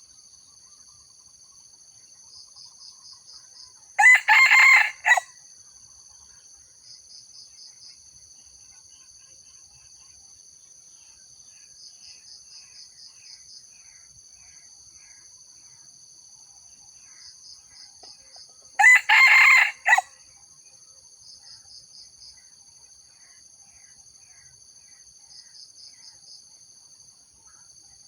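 Junglefowl rooster crowing twice, each a short, choppy crow about a second long, some fifteen seconds apart. Steady high-pitched insect buzzing with pulsed trills runs underneath.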